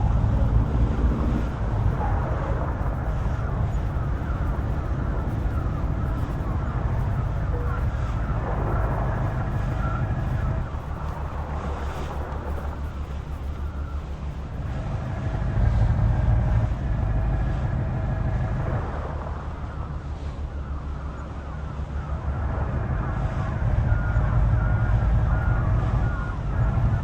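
Heavy truck engine running with a deep rumble that swells and eases, louder about halfway through and again near the end. A short row of evenly spaced beeps sounds near the end.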